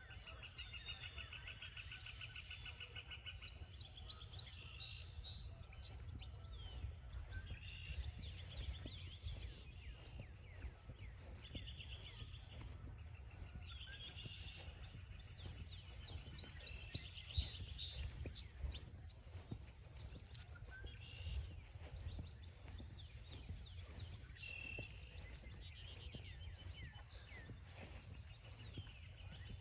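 Several songbirds singing: a fast trill of repeated notes returns every few seconds, among quick whistled sweeps. Under them are faint, even footsteps, about two a second, on a trail.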